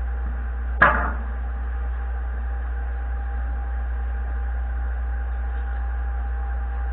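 Concrete pump truck's engine running with a steady low rumble, and a single sharp knock about a second in.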